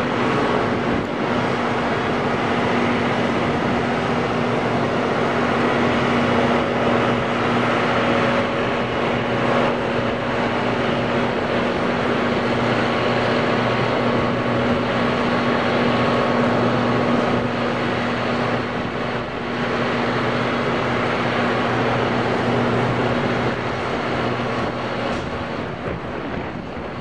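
Steady mechanical drone: a constant low hum with a few held tones under an even rushing noise, easing slightly near the end.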